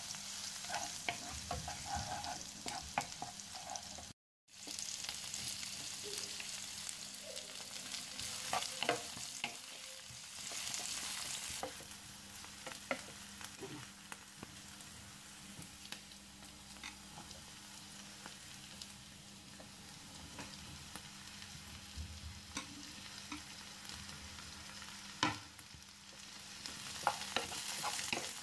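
Chopped onion and bell peppers frying in oil in a nonstick pan, sizzling, with a spatula stirring and scraping against the pan. The sound drops out for a moment about four seconds in.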